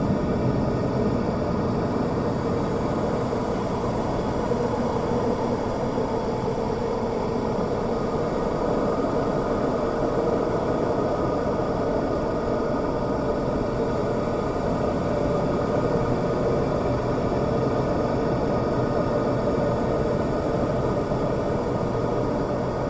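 Steady mechanical hum and hiss with a few held tones, unchanging throughout.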